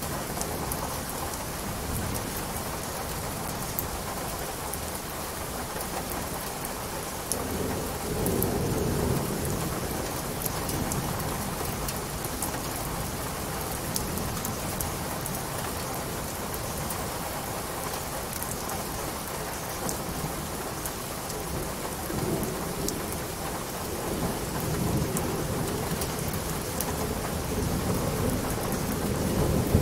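Steady rain with fine drop patter, and low rumbling that swells twice: about a quarter of the way in and again through the last third.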